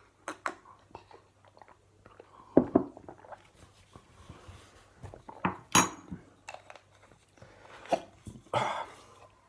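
A man's hiccups, three short outbursts a few seconds apart, with small clinks and knocks of tableware between them.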